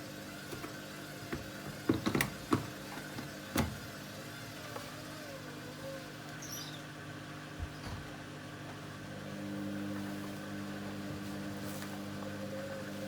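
Hoover Dynamic Next front-loading washing machine running on its Rapid 14' programme: a steady mechanical hum with a few sharp clicks and knocks about two to three and a half seconds in, then a louder steady motor or pump hum setting in about two-thirds of the way through.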